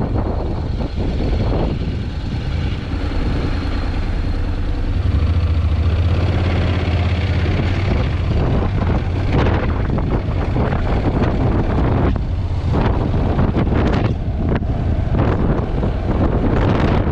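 Heavy wind buffeting on a GoPro action camera's microphone while riding a Honda NC750X motorcycle, with the bike's parallel-twin engine running underneath. The buffeting comes in rapid gusts, thicker in the second half.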